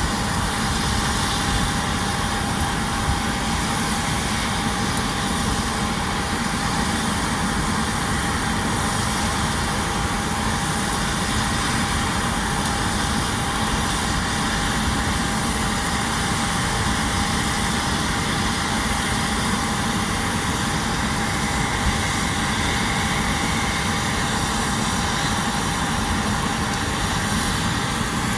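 Aircraft engine noise running steadily, a constant rumble and hiss with a thin unchanging whine over it.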